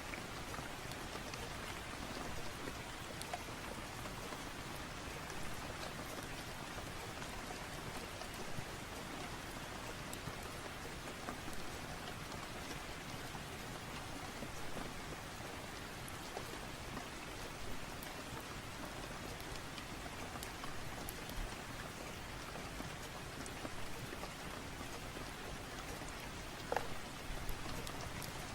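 Steady rain falling, an even hiss of drops, with a few faint clicks and pops scattered through it and a sharper click near the end.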